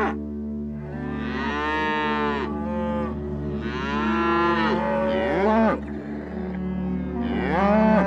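An animal calling several times in long, drawn-out calls that rise and fall in pitch, over steady background music.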